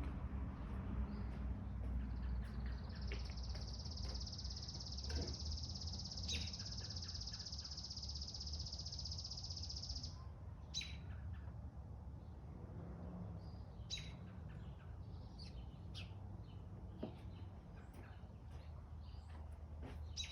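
Wild birds chirping with short, scattered high calls. From a couple of seconds in, a high steady buzz lasts about seven seconds and then cuts off. A low steady rumble runs underneath.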